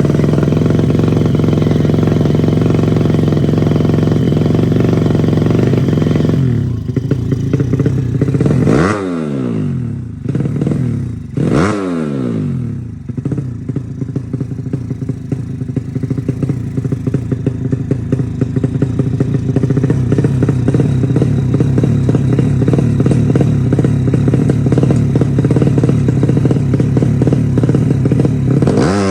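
Bored-up 150cc Honda Supra four-stroke single in a Yamaha Jupiter, held at high revs. About six seconds in the revs drop, two quick blips follow, each falling away in pitch, and then it holds high revs again until it cuts off at the end.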